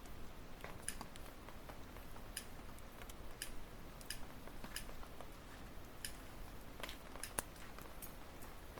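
Burning firewood crackling, with sharp irregular pops and snaps about once a second over a low steady hiss of the fire.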